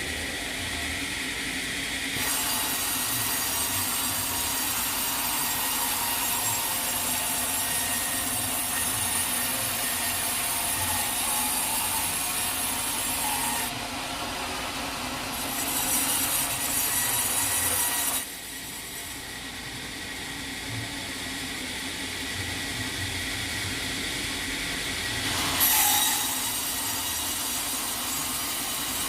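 Sawmill blade cutting a teak log: a steady, hissing sawing noise over the low hum of the mill's motor. The cut gets louder about two seconds in, eases off around fourteen and eighteen seconds, and picks up again near the end.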